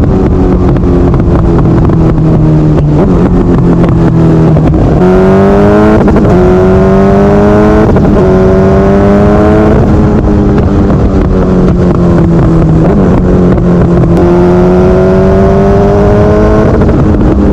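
Suzuki GSX-R 750 K4 inline-four engine held against a two-step rev limiter, running loud with a rapid, continuous crackle from the limiter cutting. Its pitch climbs slowly twice, about five seconds in and again near the end, settling back lower in between.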